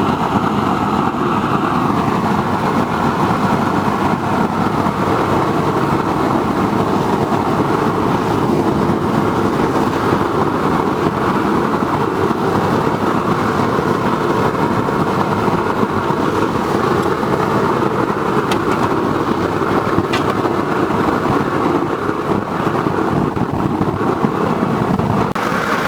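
Waste-oil burner made from an old car muffler, running steadily and loud with a blower forcing air through it while the oil vaporises and burns: a continuous even rush of flame and air with no change in pitch.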